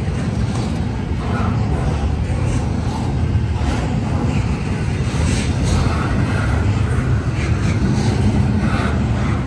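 Norfolk Southern intermodal freight train rolling past, a steady low rumble of its cars running on the rails.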